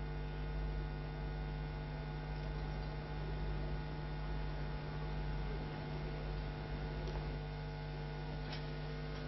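Steady electrical mains hum with many overtones over a low rumble, with a faint click near the end.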